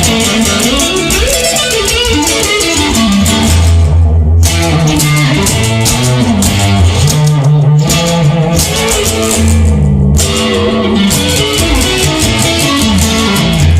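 Instrumental break in a rock song: electric guitar playing a winding lead line over bass guitar and drums, with no vocals.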